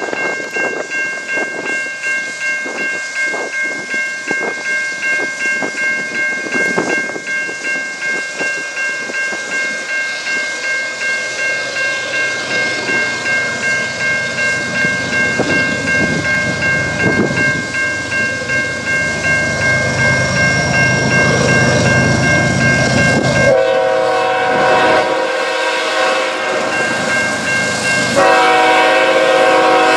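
Freight train rolling past, its wheels clattering in a steady rhythm over the rail joints under a steady high-pitched ringing. Near the end a diesel locomotive's multi-note horn sounds twice, the second blast running on past the end.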